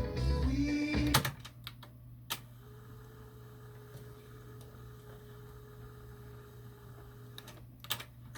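Sony TC-WR11ES cassette deck: music playback cuts off about a second in with sharp clicks of the tape transport, then a low steady hum with a faint whine, and two more mechanism clicks near the end.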